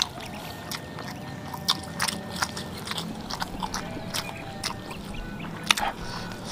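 Person eating close to the microphone: wet chewing and lip-smacking with scattered sharp clicks.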